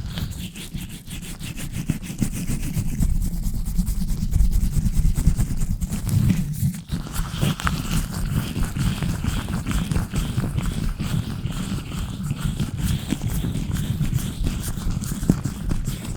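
Latex-gloved hands rubbing and scratching directly on an uncovered microphone: a dense, continuous run of rapid strokes with a heavy close-up rumble and a scratchy hiss. Through the second half there are faint rubbery squeaks.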